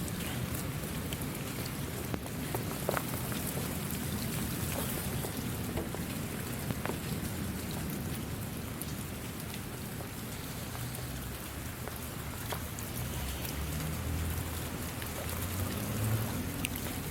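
Steady rain falling, with individual drops striking close by now and then over an even hiss.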